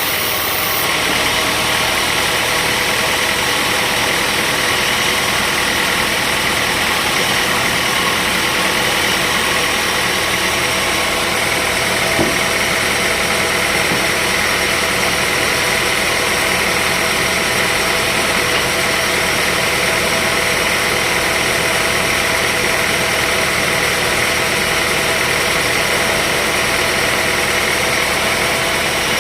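Sawmill machinery running steadily: a continuous engine-like drone with a steady whine that holds the same speed throughout, and a single faint knock about twelve seconds in.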